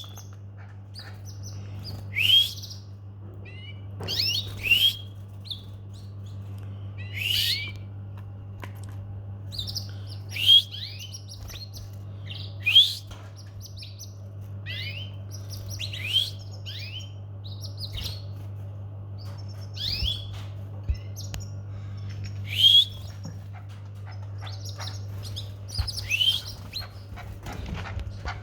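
Domestic canary chirping: short calls, each a quick falling sweep, repeated every two to three seconds, over a steady low hum.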